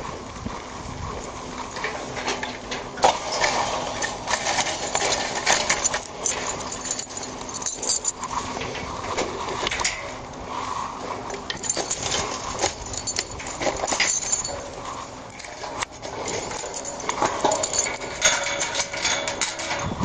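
Footsteps pushing through brush and tall grass, with irregular rustling, crackling and clinking of carried gear.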